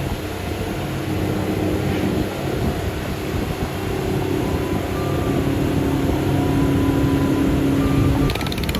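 Boat's motor running steadily under way on the river, a constant engine drone with a steady hum of wind and water.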